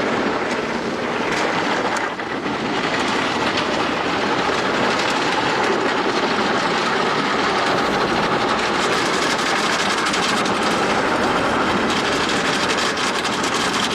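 Tunnel car wash's rotating brushes scrubbing and slapping against the car, heard from inside the cabin: a loud, steady swishing racket.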